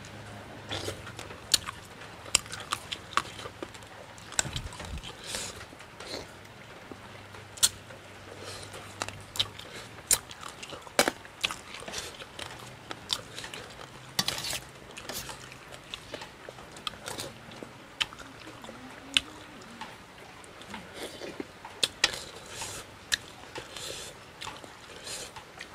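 A person eating frog stew by hand, chewing and biting into pieces of frog. The sound is a string of irregular small wet clicks and crunches.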